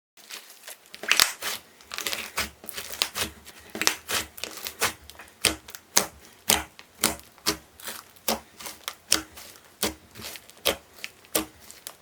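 Handmade slime being squeezed and poked, making a steady run of sharp, wet clicks and pops, about two to three a second.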